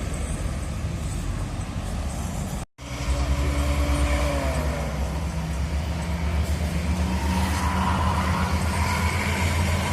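Bus and road traffic: heavy diesel engines running with a steady low drone. One engine's pitch falls about four seconds in, and a rising whine follows later. The sound cuts out for an instant a little before three seconds in.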